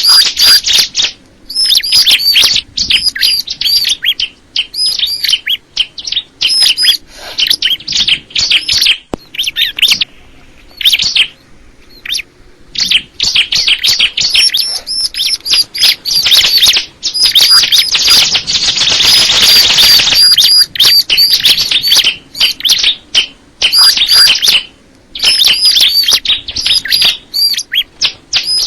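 Ciblek kristal, a small prinia, singing long fast runs of high, sharp chirping notes, broken by short pauses between phrases.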